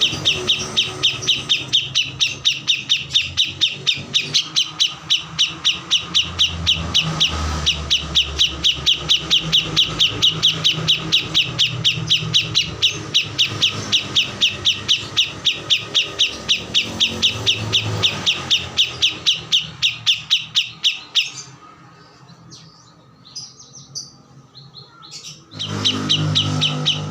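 Small songbird chirping fast and without a break, an even run of sharp high chirps about five a second, the 'gacor' kores song used as a masteran recording for training murai batu. The chirping stops for about four seconds near the end, then starts again.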